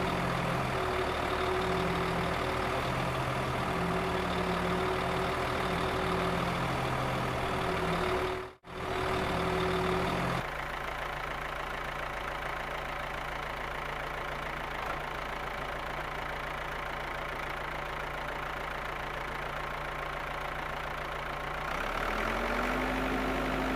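Heavy machinery engine running steadily at a constant pitch. There is a brief dropout about eight and a half seconds in, and the engine note changes abruptly about ten seconds in and again near the end.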